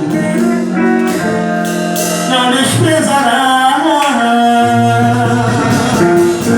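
Pentecostal gospel song: a voice singing in Portuguese over sustained guitar and instrumental accompaniment.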